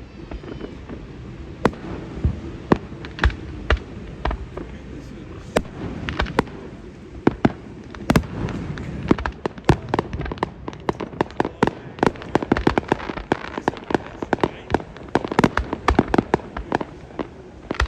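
Fireworks display: aerial shells going off in a string of sharp bangs and booms. The bangs are spaced out at first and come quickly one after another from about halfway through.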